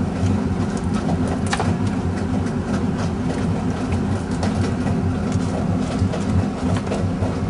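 Boat motor running steadily with a low rumble, with a few light clicks and knocks scattered over it.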